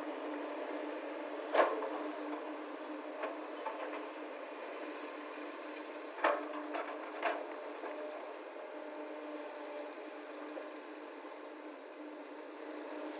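Excavator diesel engines running steadily while loading soil onto a lorry, with a few sharp knocks: the loudest about a second and a half in and two more around six and seven seconds.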